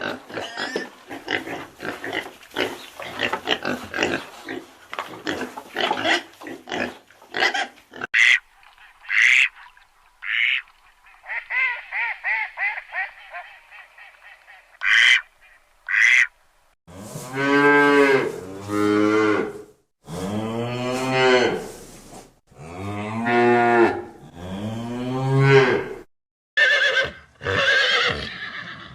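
A run of different farm animals calling, one clip after another. Busy, rapid calling fills the first few seconds, short quack-like calls come around the middle, and a series of long, deep drawn-out calls, each a second or more, fills the second half.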